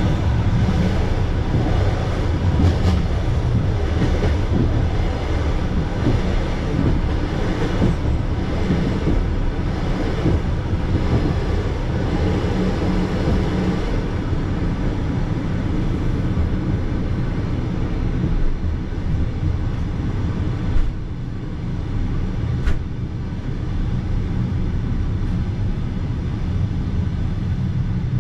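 Steady running noise of a Russian passenger train carriage, heard from inside: wheels rolling on the rails with a dense low rumble. Two sharp clicks stand out, one near the start and one late on.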